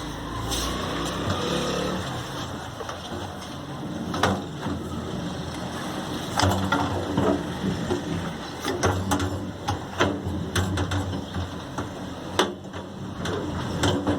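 Hand-tool work on a small generator: a series of sharp metal clicks and knocks with short bursts of rattling, as parts are unfastened and handled.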